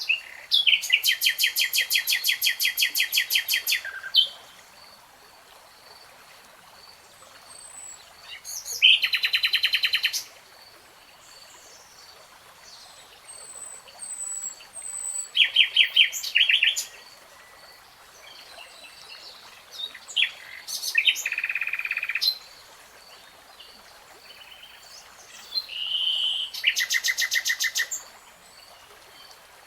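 A songbird singing rapid trilled phrases of quickly repeated notes, five phrases of one to three seconds each with pauses between them.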